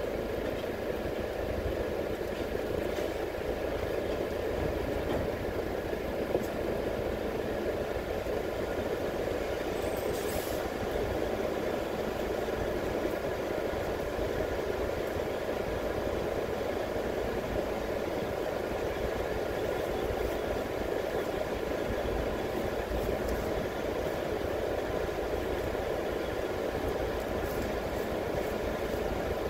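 Vehicle engine idling steadily, a low rumble with a constant hum, while stopped at a toll barrier.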